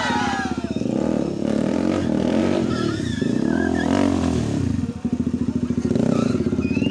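Motorcycle engine revving, its pitch rising and falling, with a short drop in loudness about five seconds in.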